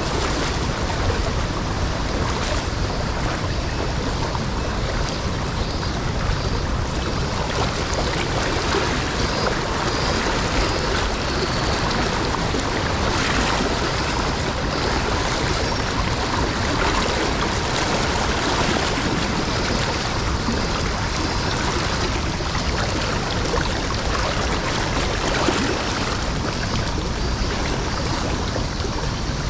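Steady rush of a mountain stream swollen in a sudden flood.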